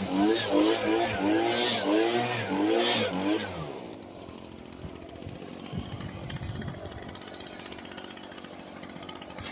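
Small engine revved up and down in quick blips, about two a second, then dropping back after about three and a half seconds to a faint, steady low running.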